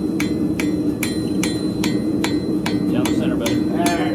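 Hand hammer striking horseshoe steel on an anvil in an even rhythm, about three blows a second, each with a short metallic ring. A steady low hum runs underneath.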